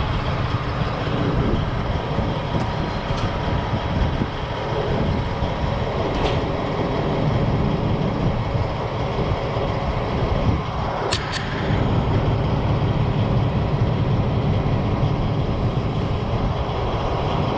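Diesel semi truck idling steadily, with two sharp clicks about eleven seconds in.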